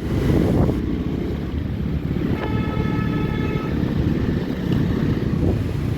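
Low rumble of wind on the microphone, with a horn sounding once, a steady tone for about a second, starting about two and a half seconds in.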